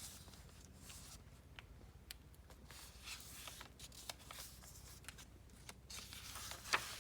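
Paper pages of a handmade junk journal being handled and turned, rustling softly with scattered light ticks and one sharper click near the end.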